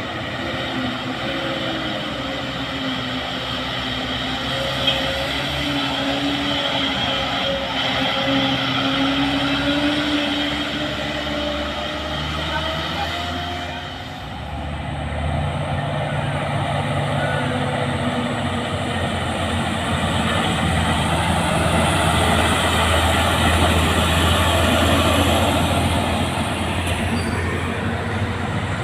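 Heavy diesel truck engines labouring up a steep climb in low gear, their pitch wavering as they pull. About halfway through the sound dips briefly, then a deeper engine note takes over and grows louder, with a faint high whine above it.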